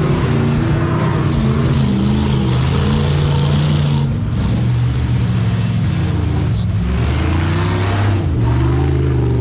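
Off-road race vehicle's engine running hard and revving, its pitch shifting about four seconds in and again near the end.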